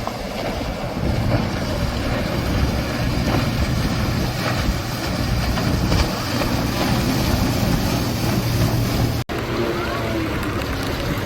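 Motorboat engines running at speed, a steady, noisy drone. It breaks off abruptly about nine seconds in, and a different, steadier engine pitch takes over.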